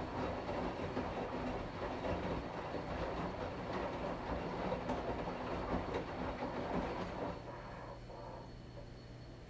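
Washing machine running a wash cycle, its drum churning the load with an uneven rumbling noise. About seven seconds in the churning stops, leaving only a quieter steady hum: the drum pausing between turns.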